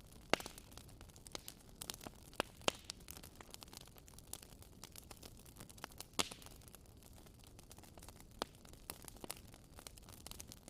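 Wood fire crackling: a soft hiss with irregular sharp pops and snaps, a few louder snaps among them.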